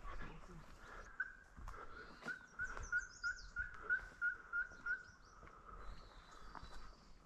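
Bird calls: a run of about a dozen evenly spaced, similar notes at about three a second, with fainter high chirps from other birds.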